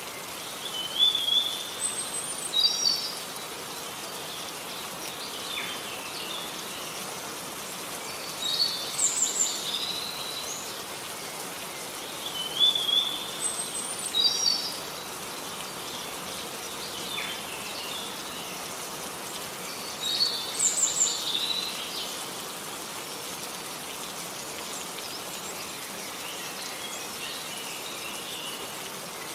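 A songbird singing short phrases of high notes in several bouts a few seconds apart, over a steady hiss of falling rain.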